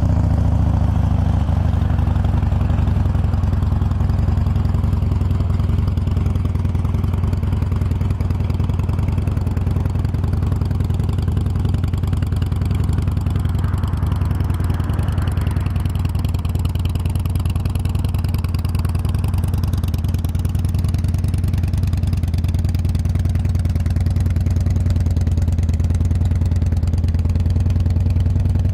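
2011 Harley-Davidson Street Bob's fuel-injected 96-cubic-inch V-twin idling steadily through slip-on mufflers.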